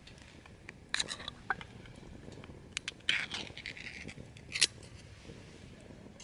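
Small hard objects being handled: a few sharp clicks and clinks about a second in, a short scrape around three seconds, and one louder click a little past the middle.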